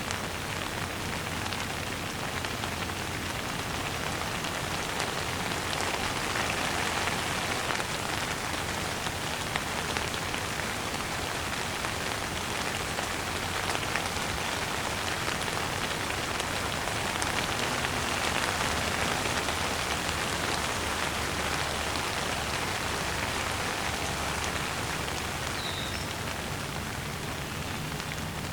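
Steady rain falling on a hard surface, a dense even hiss of many small drops.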